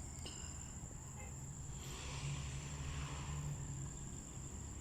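Outdoor field ambience: a steady high-pitched insect trill over a constant low rumble, with a soft rise in noise about two seconds in.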